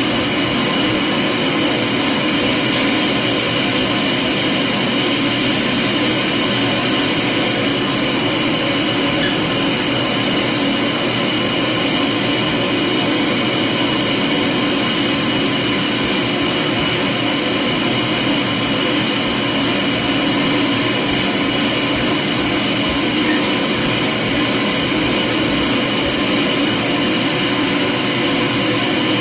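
Vacuum cleaner running steadily, a constant motor whine over rushing air with no change in speed.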